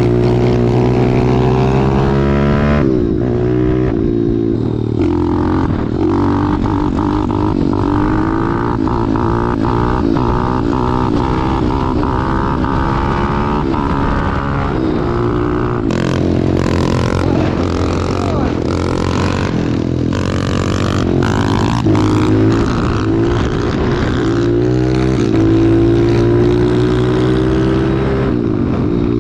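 Small four-stroke single-cylinder pit bike engine being ridden. It runs steadily at first and near the end, and in between the throttle is opened and closed repeatedly, so the engine note rises and falls.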